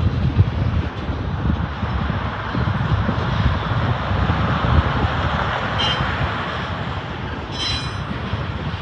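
Freight train of autorack cars rolling past, a steady rumble of wheels on rail, with brief high wheel squeals about six seconds and about eight seconds in.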